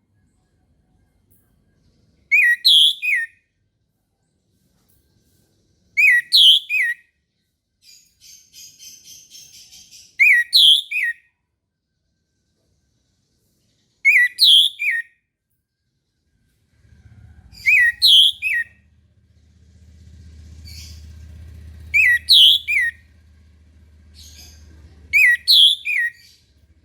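Orange-headed thrush (anis merah) singing a short, clear whistled phrase of a few notes, repeated seven times about every four seconds. A faint buzzy chatter comes between two phrases about eight seconds in, and a low hum runs under the second half.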